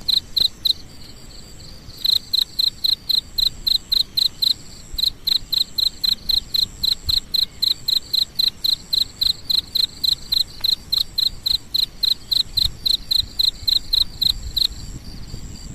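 An insect calling close by: short, sharp chirps repeated in an even rhythm, about four to five a second, pausing briefly a couple of times.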